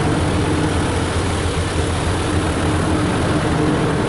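Ryko Softgloss Maxx automatic car wash machinery running steadily as its gantry moves over the car: a constant low drone with an even hiss, heard from inside the car.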